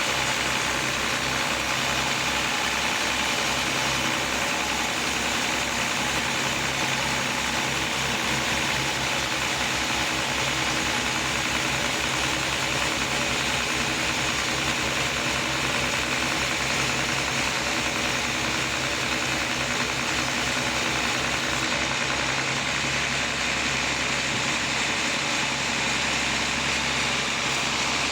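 Sawmill running, a steady engine drone with saw noise over it; the low throb of the engine changes about 22 seconds in.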